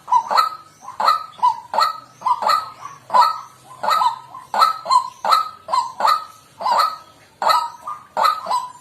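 White-breasted waterhen calling: a fast, even run of short two-part croaking notes, about three a second, without a break.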